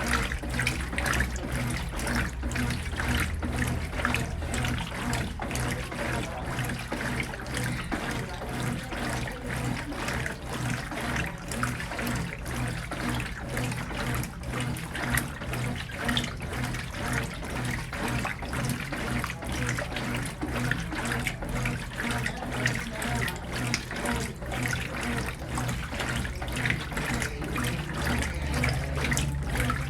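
Brastemp Ative! 11 kg washing machine mid-wash: water splashing and churning in the drum over a steady low motor hum.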